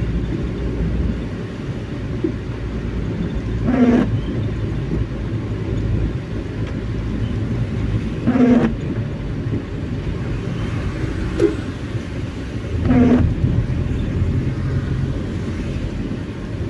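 Steady car road rumble with the windscreen wipers sweeping at intermittent speed in drizzle. Each pass is a short pitched rub, about every four and a half seconds, four times.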